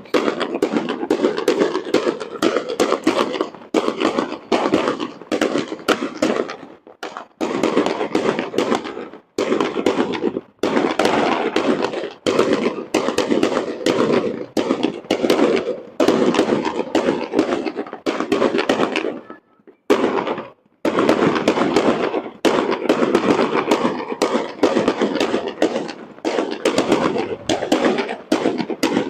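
Fireworks display going off in rapid, nearly continuous bangs and crackles, with a couple of short lulls, one about a quarter of the way through and one about two-thirds through.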